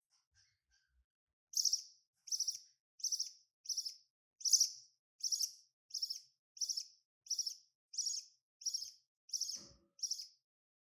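Budgerigar giving a run of about thirteen short, high chirps, evenly spaced at roughly one and a half a second, starting about a second and a half in. A soft knock sounds near the end.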